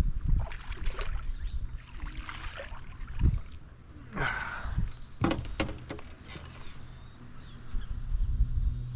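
Knocks, rubbing and water sounds on a kayak while a hooked fish is played, with a cluster of sharp clicks a little past the middle. Birds chirp faintly.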